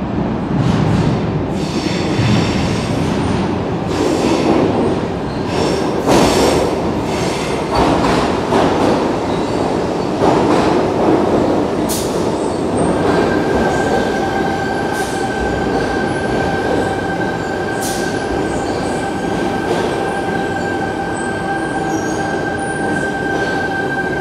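A double-deck electric train running into an underground station and slowing to a stop, with wheel rumble and a run of sharp clicks over the rail joints. About halfway through, a steady high-pitched whine sets in and holds as the train stands.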